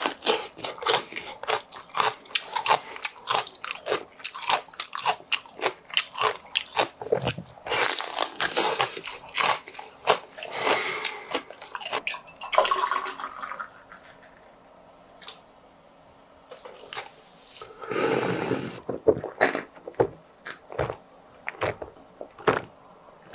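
Crisp crunching and chewing of a raw green chili pepper, many close bites and chews over the first twelve seconds. Then beer is poured from a can into a glass, and near the end come gulps of drinking.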